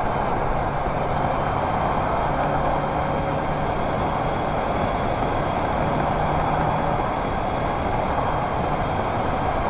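1985 Toyota MR2 with a freshly rebuilt engine, driving on the road: steady engine and road noise that runs on without change.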